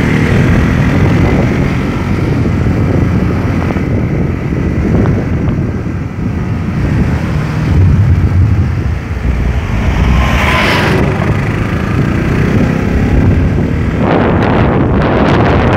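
Motorcycle running at road speed, its engine rumble mixed with wind buffeting the microphone; the wind hiss gets louder near the end.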